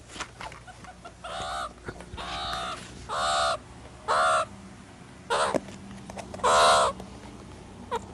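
Meerkat giving a series of short, harsh, raspy calls, about six spaced roughly a second apart, the loudest about two-thirds of the way through.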